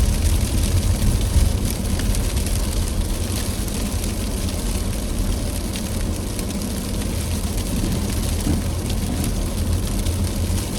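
Car driving steadily: a low engine and road rumble under an even hiss of tyres on the snowy road.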